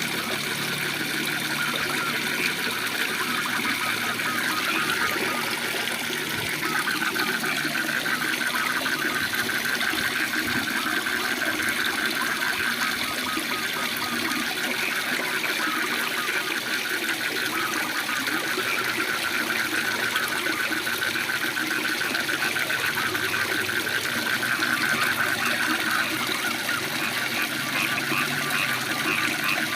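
Waterfall rushing steadily, with frogs calling in a continuous fast trill above the water noise.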